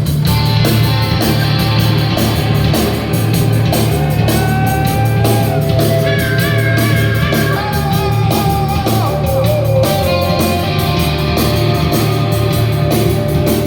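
Rock band playing live: held, gliding electric guitar lines over a steady bass and drum beat.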